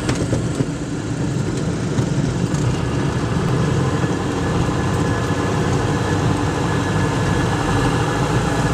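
Steady aircraft engine noise heard from inside the cockpit during the landing approach.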